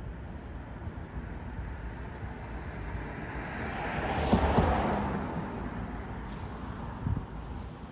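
A car passes by, its noise swelling to a peak about halfway through and fading away, over a steady low rumble of city traffic. A brief thump comes near the end.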